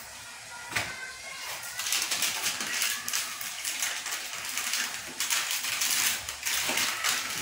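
Rapid crackling and crinkling of a paper wrapper being handled and folded around a shawarma roll. It grows denser and louder about two seconds in.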